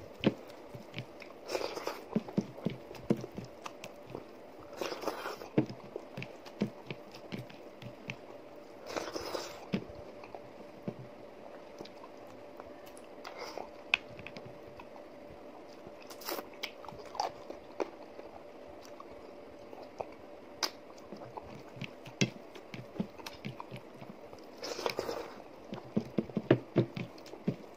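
Close-up eating sounds: a person chewing mouthfuls of rice and chicken curry eaten by hand, with scattered soft clicks from mouth and fingers and a few louder bursts as the food is handled.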